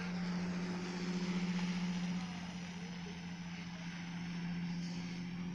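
A vehicle's engine running steadily at idle, one unchanging hum over a steady hiss.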